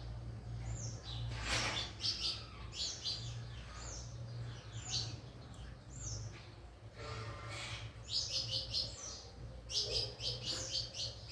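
Small birds chirping repeatedly in quick runs of short, high chirps, over a steady low hum.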